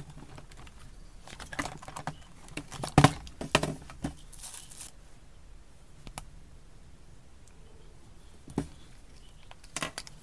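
Hand tools and their plastic packaging being handled: scattered clicks and knocks, a loud cluster about three seconds in, with a short crinkling rustle after it and a few single knocks near the end.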